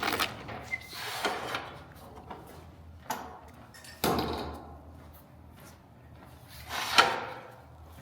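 Several separate knocks and clunks of hand work, with the loudest a short sliding sound that ends in a bang about seven seconds in.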